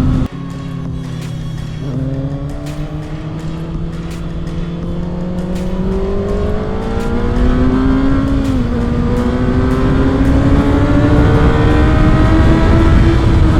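2024 Kawasaki ZX-6R's inline-four engine pulling on the road, its revs climbing slowly and steadily, with a brief dip in pitch about two-thirds of the way through. The sound drops out sharply for a moment just after the start.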